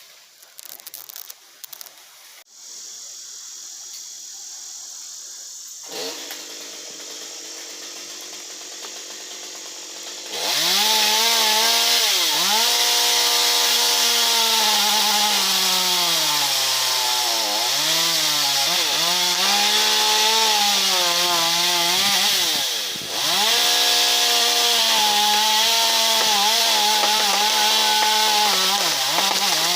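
Chainsaw comes in loud about a third of the way in and cuts into wood, its engine pitch repeatedly sagging under load and picking back up, with a brief dip in its running near the end.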